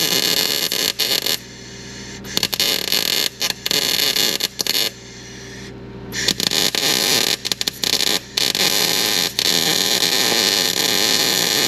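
Electric welding arc crackling and hissing in several runs of a few seconds with short pauses between, as beads are laid to fill thin, worn metal on a snowblower's fan shroud.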